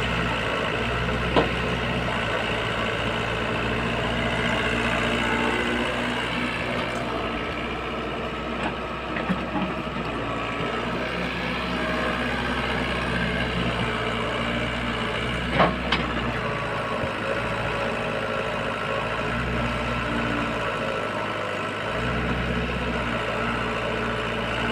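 Diesel engine of earthmoving machinery running steadily, its low note shifting in level a few times, with a few sharp knocks, the first about a second and a half in.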